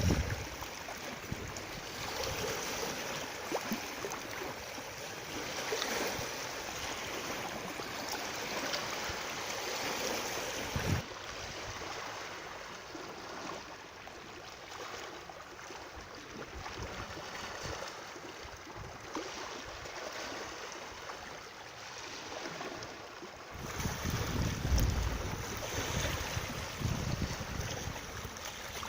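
Outdoor water rushing steadily, with low wind rumble on the microphone at times. The sound changes abruptly twice, as between separately recorded nature clips.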